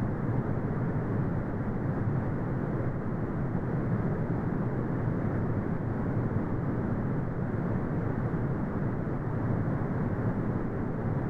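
Synthetic brown noise: a steady, deep rumbling hiss with no tones or events, its energy heavy in the low end and cut off above about 2 kHz.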